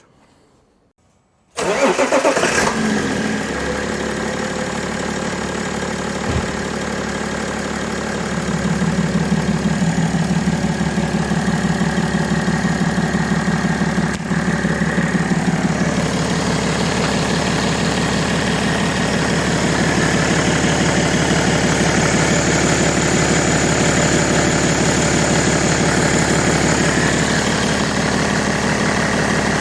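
BMW M57 straight-six diesel engine starting about a second and a half in, then idling with a steady, even beat that grows louder about eight seconds in. There is no belt squeal: with the original Continental accessory belt fitted, the belt now runs quietly.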